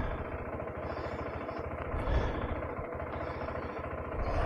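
KTM 390 Adventure's single-cylinder engine running at low speed, a steady rumble with a fast even pulse.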